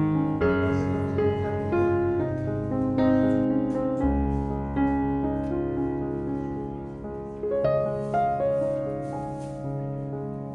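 Background piano music: a slow melody of held, ringing notes over sustained chords.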